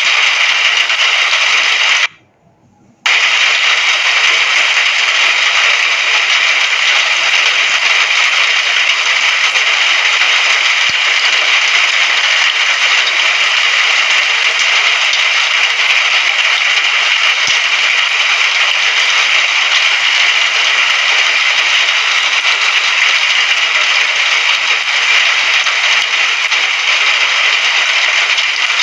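Steady rain hiss with no thunder or distinct drops standing out. About two seconds in, it cuts out to near silence for about a second, then resumes.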